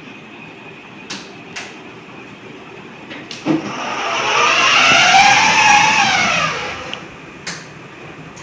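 Electric ride-on toy car's motor and gearbox whining as it drives, the pitch rising as it speeds up and falling as it slows, loudest about halfway through. A few light clicks come before it.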